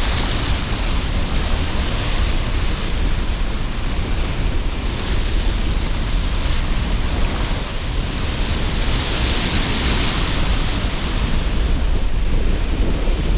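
Sea surf under a strong wind: a continuous rushing roar with a heavy low rumble of wind, and waves washing in as swells of hiss midway and again, loudest, about two-thirds of the way through.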